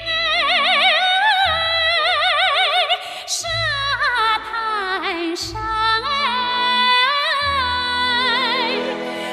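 A female vocalist singing long held notes with wide vibrato in a Chinese national-folk style, over orchestral backing with a pulsing bass line.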